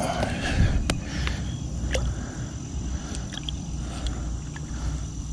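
Water sloshing and splashing as a caught bass is held in the pond shallows for release, with a louder splash in the first second and a few sharp clicks, over a steady low rumble.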